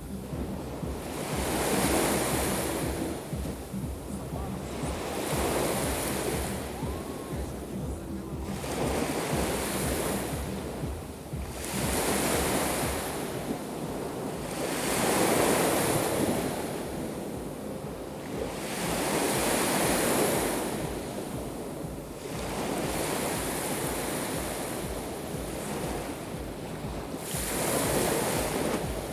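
Black Sea surf washing onto the shore, each wave swelling in and fading away every three to four seconds, with wind rumbling on the microphone.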